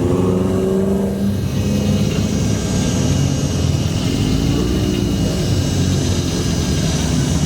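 Car engine running at a steady loud level, with one rise and fall in pitch about four to five seconds in, like a brief rev.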